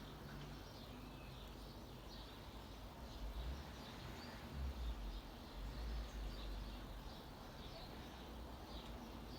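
Wild birds chirping repeatedly in short high calls, with a low rumble on the microphone a few seconds in.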